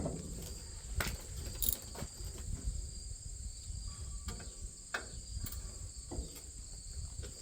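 Crickets trilling steadily, with a few sharp clicks and knocks scattered through, from hand work on the corn head.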